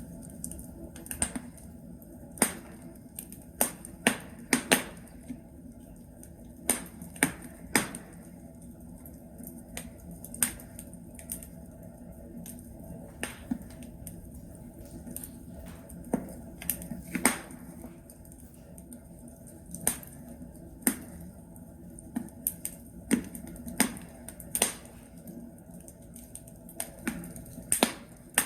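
Wood logs burning in a fireplace: irregular sharp crackles and pops, several a second in clusters, over a low steady hiss of the fire.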